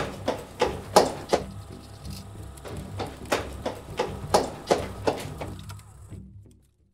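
Soundtrack of sharp, evenly spaced percussive hits, about three a second, over a low steady drone, with a short break in the middle. It fades out near the end.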